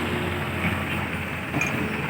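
Heavy diesel engine running steadily at low revs, a dump truck or excavator idling, with a faint tick now and then.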